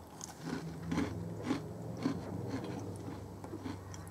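A person chewing a bite of a crumbly MRE chocolate chip cookie close to the microphone, with chews about twice a second.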